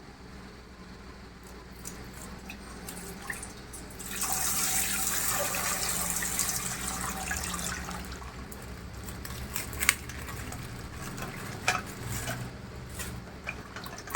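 Coloured water pouring out of a punctured plastic ice pack: a gush starts about four seconds in, runs for several seconds and fades to a trickle, with a few sharp plastic clicks and crinkles.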